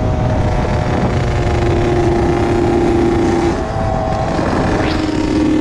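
Honda CR80's two-stroke single-cylinder engine running at a steady throttle while being ridden, over a heavy low rumble of wind on the microphone. The engine note drops slightly about three and a half seconds in, then holds steady again.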